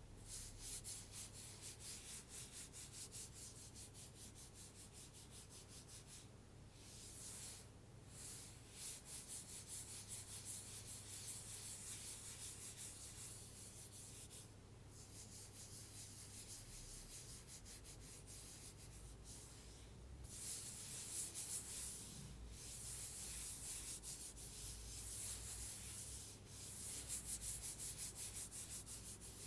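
An Apple Pencil scratching back and forth across an iPad cover in quick, even strokes, about three a second, in runs broken by short pauses.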